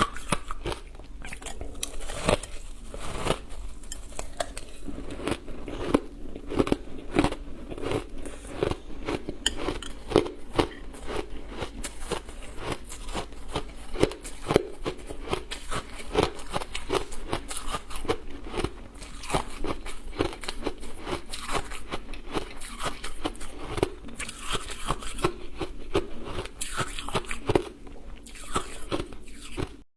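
Ice dusted with matcha powder being bitten and chewed close to the microphone: continual hard, crackly crunching, several bites and chews a second.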